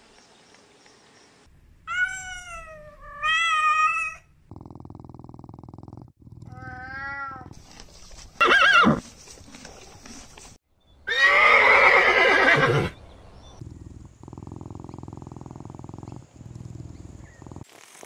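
A horse neighing: one short sweeping call, then a long loud whinny about eleven seconds in. Before it come a few shorter wavering, pitched animal calls, with a low steady hum between the calls.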